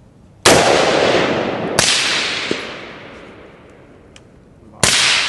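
Three gunshots: one about half a second in, one just under two seconds in and one near the end. Each is a sharp crack followed by a long echo that fades over a second or more.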